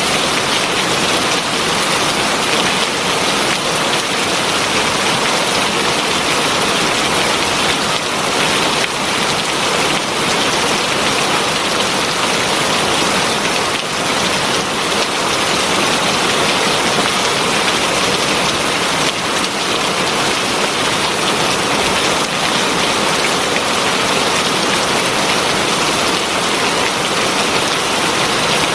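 Heavy rain falling steadily, a dense, even hiss of drops on surfaces with no letup.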